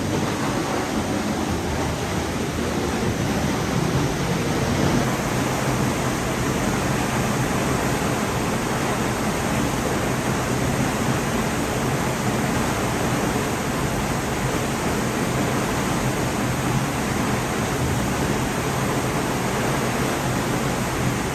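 North Falls, a 136-foot waterfall, pouring steadily: a constant, even rush of falling water, heard from the cave behind the falls.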